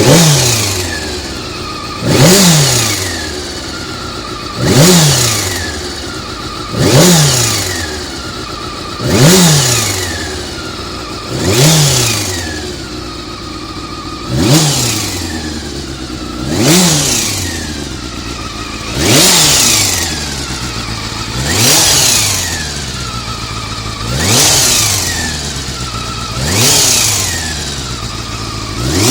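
Honda CBR400RR inline-four engine revved in short throttle blips, about one every two and a half seconds, each rising quickly and falling back to idle. The uploader suspects the abnormal noise comes from the cam gear train.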